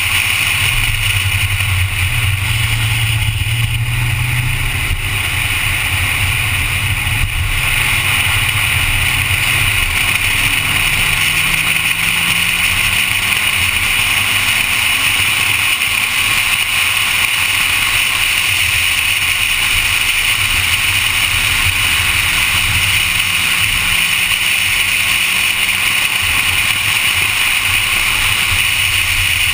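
Honda Civic engine pulling at lapping speed, its note rising and falling with the throttle, over a steady rush of wind and road noise.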